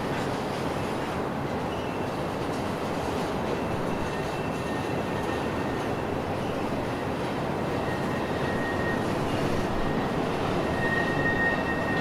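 CSX freight train rolling past with a steady rumble of wheels on rail, and a thin high wheel squeal that comes and goes, strongest near the end.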